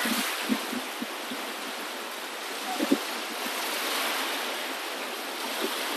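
Steady rushing water, swelling slightly about four seconds in, with a few soft low thumps near the start and a louder double thump just before three seconds.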